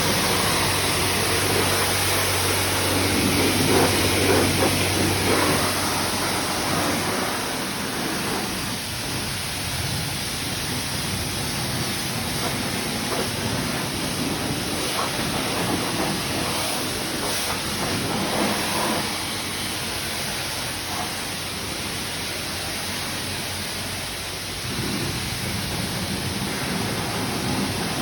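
Self-serve car wash spray wand on the soap setting, spraying a steady hiss of soapy water against a van's body. The sound rises and falls as the spray is moved across the panels.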